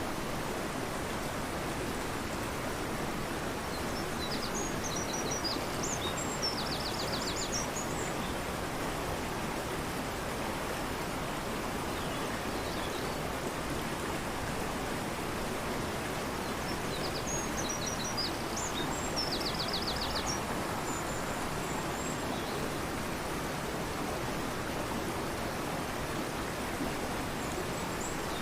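Steady rush of a fast-flowing river, with a small bird singing the same short high phrase twice, about four seconds in and again about seventeen seconds in, each ending in a quick trill.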